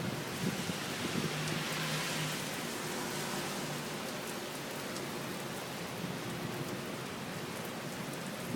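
Very heavy rain pouring down in a steady, dense hiss that swells briefly about two seconds in.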